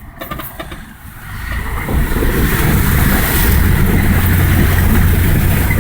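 Vehicle fording a shallow river: engine rumble with water rushing and splashing around the wheels, swelling about a second and a half in and then holding steady.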